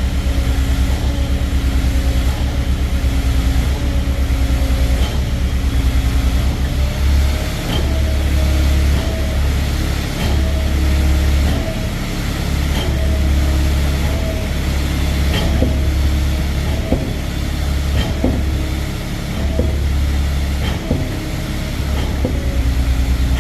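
Truck-mounted Putzmeister concrete pump running under load while pumping concrete: a steady low engine hum that swells and dips in rhythm with the pump strokes, with a sharp knock every second or two as the pump cycles.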